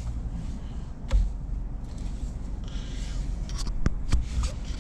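Rubbing and handling noises with a few sharp clicks over a low, steady rumble.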